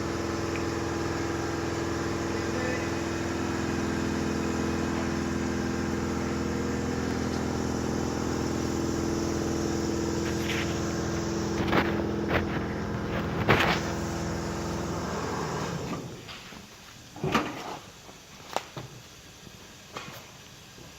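A steady mechanical hum with several held tones, from a running motor or engine, stops about three-quarters of the way through. A few scattered knocks and clatters come near and after the stop.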